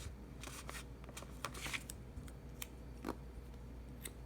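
Light paper handling: a sticker sheet rustling and peeling, with a few small clicks and taps.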